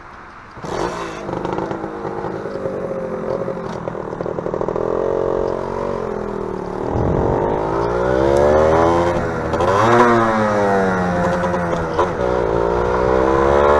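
Small motorcycle engine, a Modenas Dinamik 120, running under way. The sound comes in suddenly just under a second in. The engine's pitch climbs and drops back twice, as when accelerating and changing gear.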